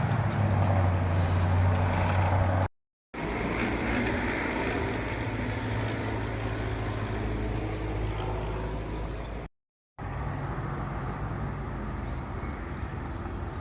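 Steady drone of a vehicle on the move, engine hum and road noise, cut off twice by abrupt gaps of silence.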